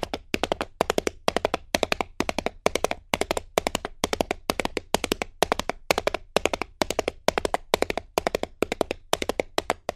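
Rapid rhythmic tapping: quick clusters of sharp clicks, about three clusters a second, keeping up without a break.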